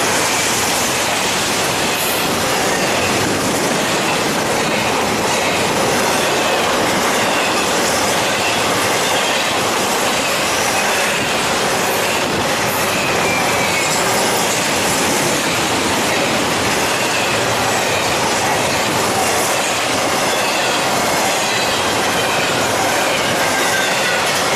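Railroad cars rolling past at steady speed: wheels clicking over rail joints with faint wavering wheel squeal.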